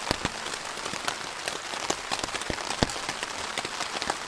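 Heavy rain coming down hard: a steady hiss of rainfall, with many sharp, irregular ticks of single drops striking close by.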